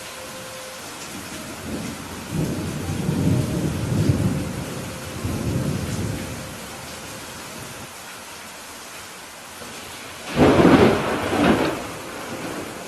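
Steady rain hiss with thunder: a low rolling rumble a couple of seconds in that swells and fades over about four seconds, then a louder, sharper thunderclap about ten seconds in with two peaks.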